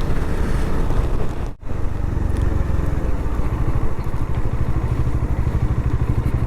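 Bajaj Dominar motorcycle's single-cylinder engine running steadily while riding, a pulsing low rumble with road and wind noise. The sound drops out for a moment about one and a half seconds in.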